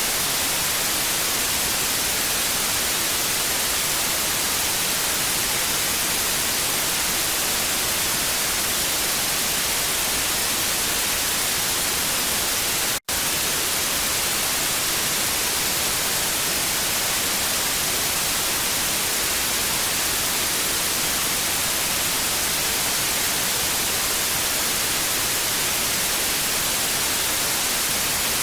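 TV static: a steady, even hiss, strongest in the high frequencies. It drops out to silence for a split second about halfway through.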